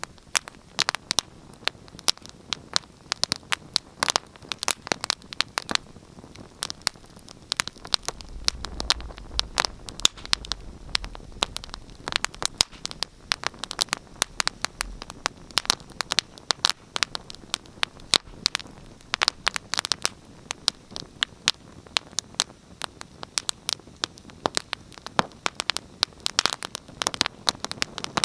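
Wood fire crackling in a fireplace: a dense, irregular run of sharp pops and snaps over a faint steady hiss. A low rumble joins in briefly about eight seconds in.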